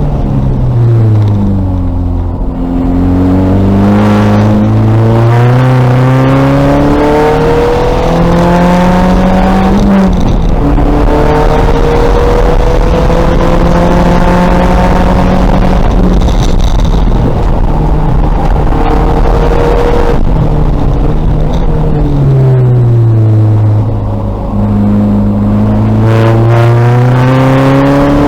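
A 2000 VW Golf race car's engine running hard at speed, its pitch falling under braking and downshifts and climbing again on acceleration, with a sharp drop at an upshift partway through.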